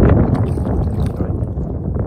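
Wind rumbling on the microphone, with a few light knocks near the start and about a second in.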